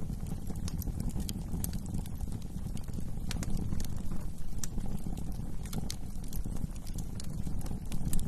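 Wood fire in a fireplace crackling, with frequent irregular sharp pops and snaps over a steady low rumble of the burning flames.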